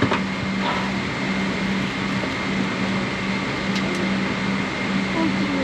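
Steady cabin ambience inside a Boeing 777-300 airliner: ventilation air hiss under a constant low hum, with a few faint clicks.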